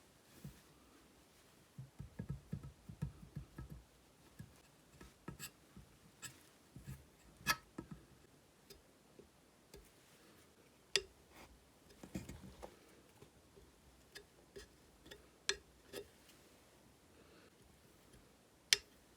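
Faint, irregular sharp clicks and light taps of small chainsaw parts and hand tools being handled and set down on a workbench, with a few duller knocks about two seconds in and again about twelve seconds in.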